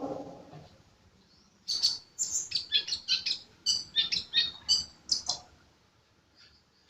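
Sunbird (the 'kolibri' of Indonesian bird-keepers) singing a fast, loud run of high, sharp chirps lasting about three and a half seconds. A brief lower-pitched sound comes right at the start, and only faint chirps follow the run.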